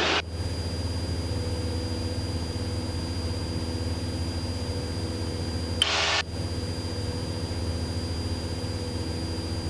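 Cessna 172's piston engine running steadily at climb power just after takeoff, an even drone. A short burst of another sound cuts in briefly about six seconds in.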